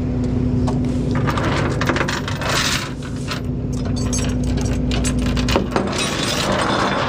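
Metal tie-down chains clinking and rattling as they are handled, over the steady idle of the tow truck's diesel engine.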